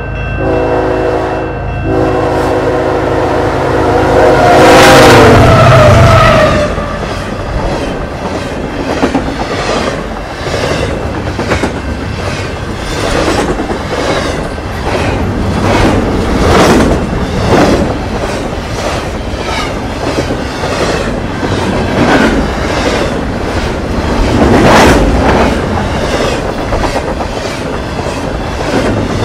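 Freight locomotive's horn sounding a chord, with a short break about 2 seconds in. It is loudest about 5 seconds in, then drops in pitch as the locomotive passes and stops. Then double-stack intermodal freight cars roll by, wheels clattering rhythmically over the rail joints, with a few louder clanks.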